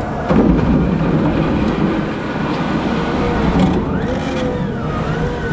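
Wheel loader's diesel engine running and revving. A knock comes near the start, and a whine rises and wavers in pitch about four seconds in.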